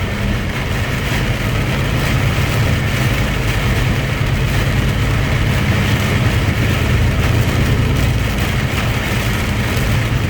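Truck engine running with a steady low drone under an even rush of road noise.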